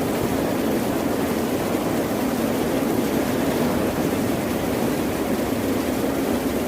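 Ocean surf as a steady, loud rushing noise, low and full, with no distinct separate wave breaks.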